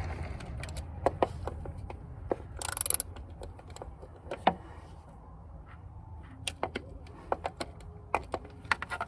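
Irregular light clicks and taps of hand tools and engine parts being handled during work on the valve cover area of an engine, with a brief scraping hiss about three seconds in.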